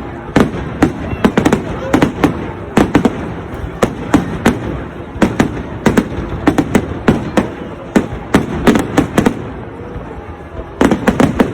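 New Year fireworks going off in rapid, irregular succession: sharp bangs and crackles several times a second over a continuous rumble, with a dense flurry near the end.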